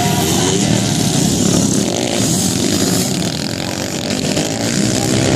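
Motocross dirt bike engine revving on the track, its pitch rising and falling with the throttle.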